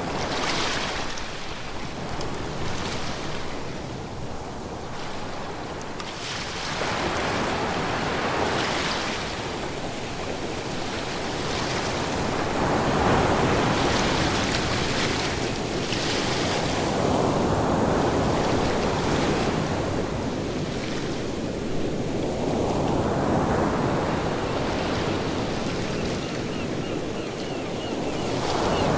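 Ocean waves breaking and washing on the shore, the surf swelling and ebbing in slow surges every few seconds, with some wind.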